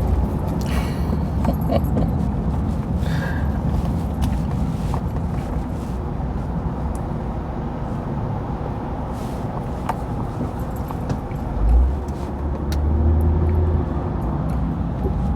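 Steady road and engine rumble of a car heard from inside the cabin while driving, with a brief louder low thump about twelve seconds in.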